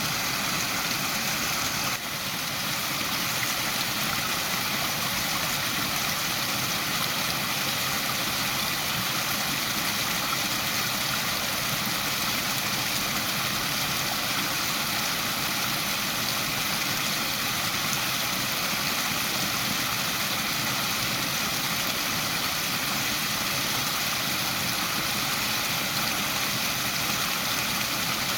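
Waterfall: water pouring and rushing in a steady, even hiss, with a brief small dip in level about two seconds in.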